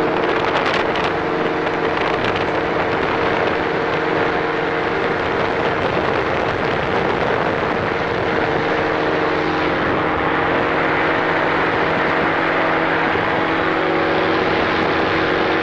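Powered paraglider's engine and propeller running at a steady drone in flight, with air rushing over the microphone.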